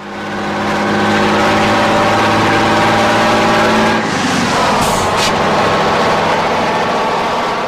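Truck engine running steadily, its pitch shifting about four seconds in.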